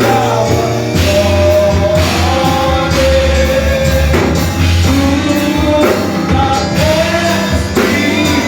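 Gospel worship music: a singing voice over a band with bass and guitar, loud and continuous.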